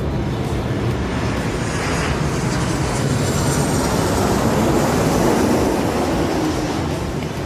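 Jet airliner passing by. Its engine noise swells to a peak about five seconds in and then eases off, with a high whine falling in pitch as it goes past.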